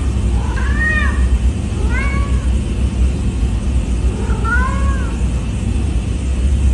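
A cat meowing three times, each call rising and then falling in pitch, over a steady low rumble.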